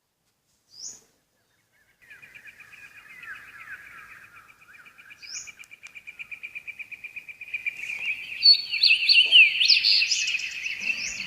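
Birdsong: a few short rising chirps, then a fast pulsing trill from about two seconds in, joined near the end by many overlapping bird calls that grow louder.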